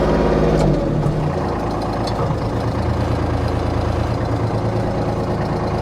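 Kubota B2650 tractor's three-cylinder diesel engine drops from working speed to idle about a second in, then idles steadily.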